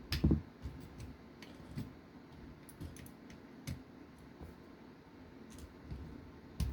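Scattered small clicks and taps of hands handling small metal and plastic RC car parts and tools, with a sharper knock just after the start and another near the end.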